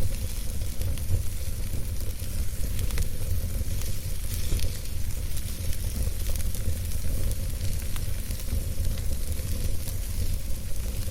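Wood campfire burning, with many small irregular crackles and pops over a steady hiss and a low rumble.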